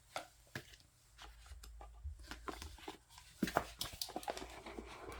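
Paper and cardboard album contents being handled: rustling and light clicks and taps as photocards, a poster and packaging are moved about, busier about three and a half seconds in.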